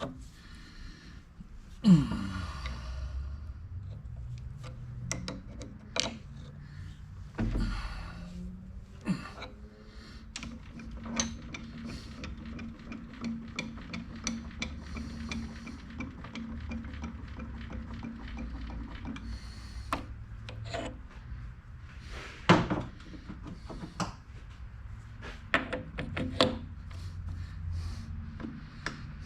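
Hands-on metalworking at a lathe: a steady low machine hum under irregular clicks, knocks and rubbing of metal tools and parts being handled, with one sharp knock about two seconds in.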